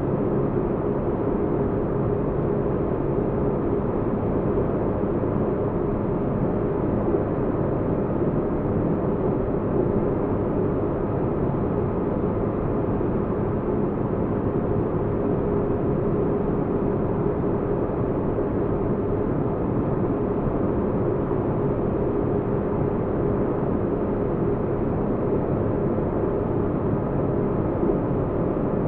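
Spaceship-interior sleep ambience: a steady, deep rumbling drone of noise with a faint steady hum, like a starship's engines heard from inside.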